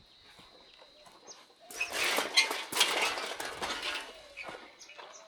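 A bird gives loud, harsh squawking calls for about two seconds, around the middle. Faint chirps of small birds come near the end.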